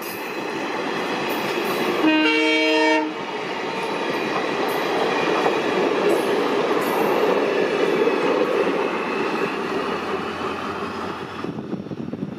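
Indian Railways train running past with a steady rumble and rattle of wheels on the rails. About two seconds in, a locomotive horn sounds one blast of about a second, a chord of several tones at once. The train noise drops away near the end.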